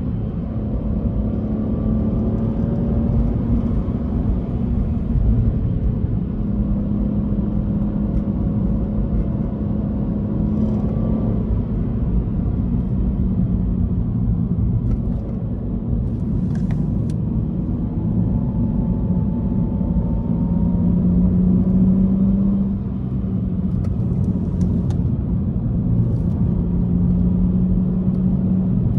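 Subaru Legacy 3.0R's EZ30R flat-six engine pulling in second gear, heard from inside the cabin, its note rising and falling with the throttle and easing off briefly a little past twenty seconds in.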